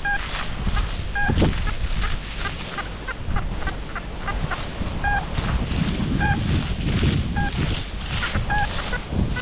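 XP Deus metal detector giving short, same-pitched beeps again and again as it sweeps over rebar set in concrete. Heavy wind buffets the microphone throughout.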